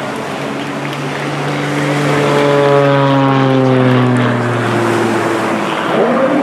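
CAP 231 aerobatic plane's six-cylinder Lycoming piston engine and propeller running as it passes, the pitch falling slowly over the second half as it goes by.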